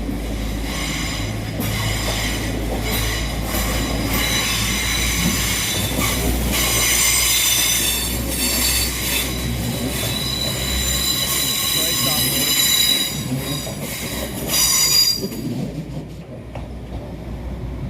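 Passenger train running past at close range, its steel wheels squealing on the rail in several high tones over a low rumble. The squeal and rumble stop about fifteen seconds in as the train clears.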